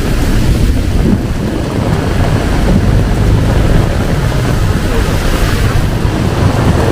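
Heavy rain pouring in a thunderstorm, with wind buffeting the microphone in a steady low rumble.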